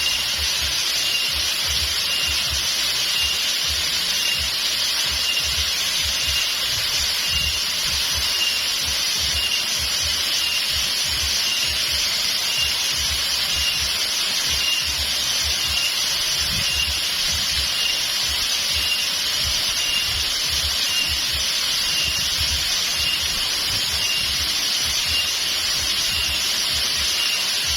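Steady rush of the Coban Putri waterfall and its stream. A high, thin chirp, likely an insect's, repeats about twice a second over it.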